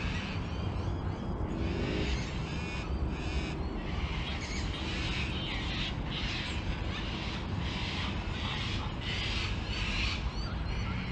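Birds calling over and over, short calls repeating about once a second, over a steady low rumble.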